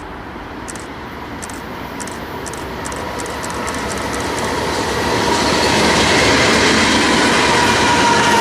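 BNSF intermodal freight train approaching, growing louder for about five seconds and then staying loud, with a steady high tone running through it that strengthens near the end.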